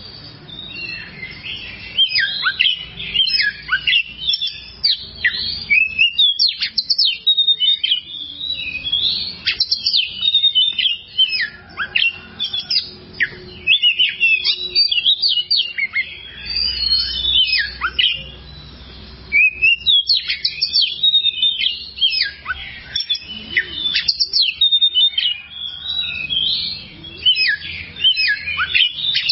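Oriental magpie-robin (kacer) singing: a fast, varied run of sharp chirps and sweeping whistles, broken by a couple of short pauses.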